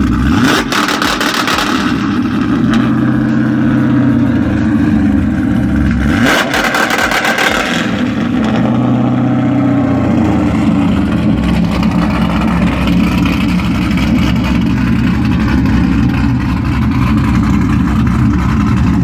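Cadillac CTS-V V8 held on a two-step launch-control rev limiter, running loud at a steady high rev, with two brief changes in the revs, about half a second in and around six seconds in, and cutting off abruptly at the end. It isn't popping, which is put down to the engine being cold.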